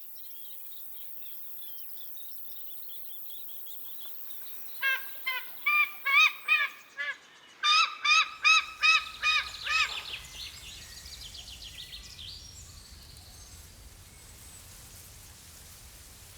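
A bird calling in two runs of loud, rapidly repeated, arched call notes, about three to four a second, starting about five seconds in, with faint high chirping before them.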